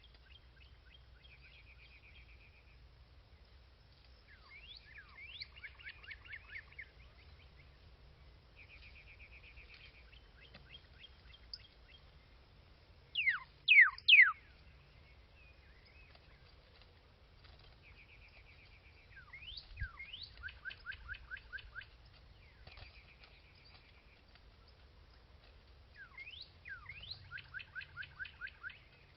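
Songbirds calling in repeated phrases: short buzzy notes, and trills that open with a downward swoop. About halfway through comes a quick run of loud, sharply falling whistled notes.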